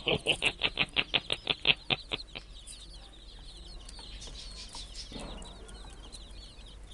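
Chickens: a fast run of short clucks, about six a second, that slows and dies away in the first two and a half seconds, over the faint, continual peeping of many baby chicks.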